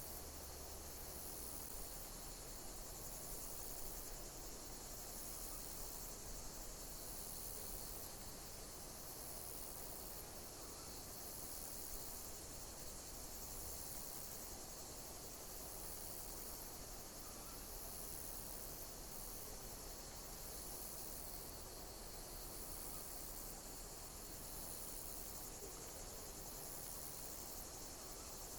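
Insects chirping in a steady high-pitched chorus, with a pulse repeating about every two seconds over a constant soft hiss.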